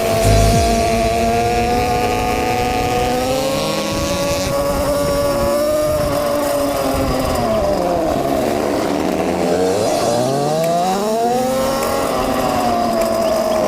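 Two-stroke ATV engine running under way, its revs holding fairly steady, then dropping off and climbing again about two-thirds of the way through.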